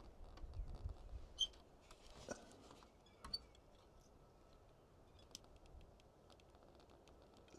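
Near silence with a few faint, short clicks of handling in the first few seconds, then only scattered faint ticks.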